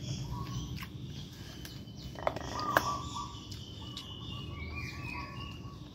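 Birds chirping, with a few short clicks and smacks of someone eating with her fingers, the loudest a little under three seconds in.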